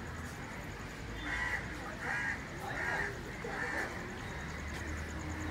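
A bird calls four times, the calls about two-thirds of a second apart, over a steady low outdoor background.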